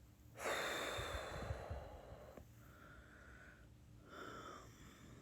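A woman's heavy breath, a long sigh lasting about two seconds, followed about four seconds in by a shorter, softer breath.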